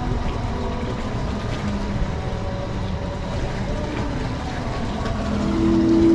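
Engine of a traditional abra boat running steadily, with faint music over it; the music grows louder near the end.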